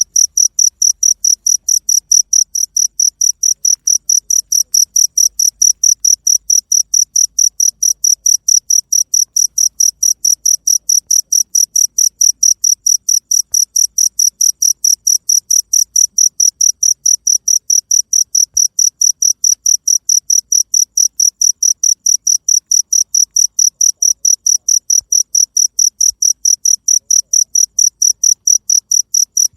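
Cricket chirping in a steady, even rhythm: a short high-pitched chirp repeated about four times a second without a break.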